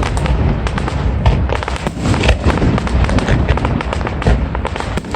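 Fireworks display going off, a rapid run of bangs and crackles over a continuous low rumble.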